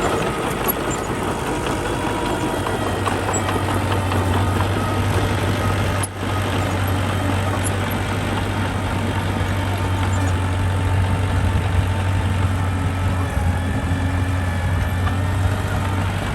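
Heavy diesel engine of earth-moving equipment running steadily with a deep low hum, briefly dropping out about six seconds in.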